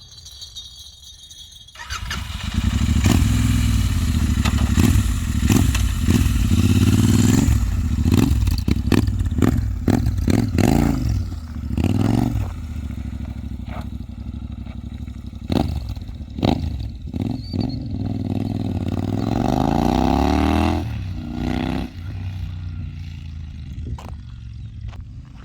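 Royal Enfield Interceptor 650 parallel twin running through aftermarket AEW mufflers with the dB-killer baffles removed. It comes in abruptly about two seconds in and is blipped several times, with one longer rev late on, before settling back to idle.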